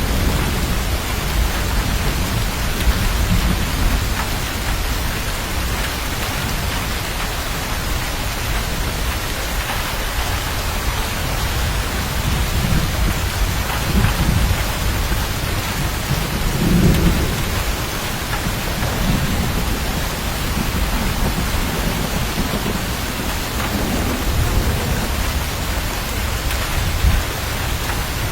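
Steady heavy rain with thunder rumbling under it, swelling and fading several times; the loudest rumble comes a little past the middle.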